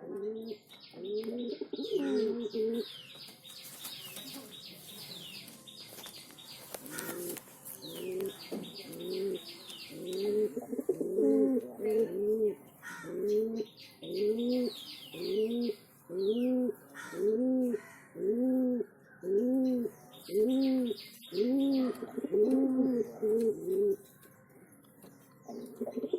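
Male pigeons cooing in a steady series of low, arched coos, more than one a second. Bursts of quick, high chirping from small birds come in several clusters over them.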